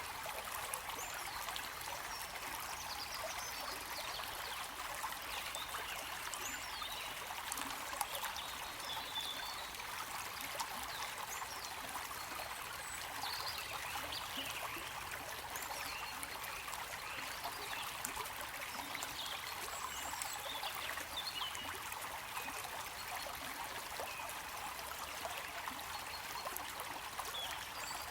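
Running water: a stream trickling and babbling steadily, with small scattered higher gurgles.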